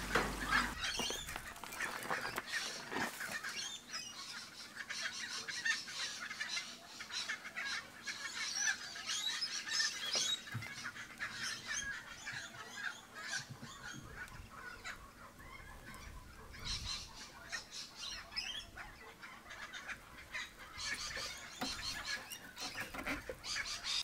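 Birds calling: a quick succession of short calls, thinning out for a few seconds near the middle.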